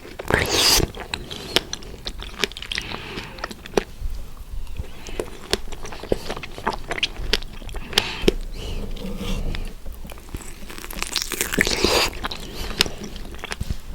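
Biting into fresh strawberries and chewing them, with many small wet mouth clicks. There are two louder bites, one just after the start and another about eleven seconds in.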